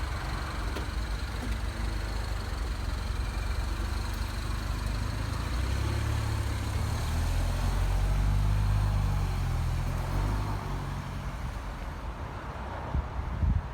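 Engine of a 2011 Mini Cooper Clubman, a four-cylinder, running as the car is driven, growing louder and rising in pitch around the middle before settling back, with a few sharp knocks near the end.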